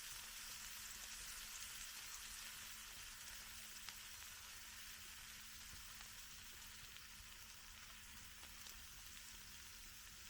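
Food frying in a pan over a campfire: a faint, steady sizzle with a few small pops.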